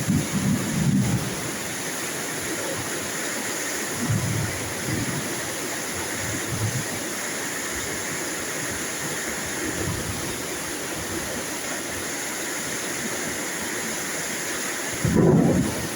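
Steady hiss of heavy rain, with low rumbles of distant thunder coming and going, the strongest near the end.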